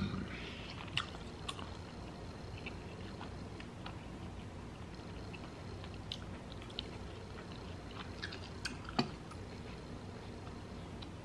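Close-up chewing of tri-tip steak, with a few sharp clicks of a metal fork against the plate, the loudest about nine seconds in.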